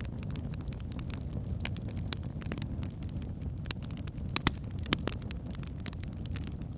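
Wood fire burning in a fireplace: a steady low rumble of flames with irregular sharp crackles and pops from the burning logs, two louder pops a little past the middle.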